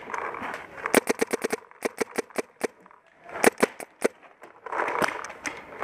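Paintball marker firing in quick strings of shots: a fast run of about seven shots about a second in, then further shorter strings.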